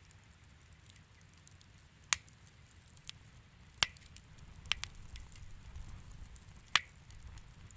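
Wood fire crackling in a fireplace, with four sharp pops and many fainter ticks over a low rumble of the flames that grows a little from about halfway.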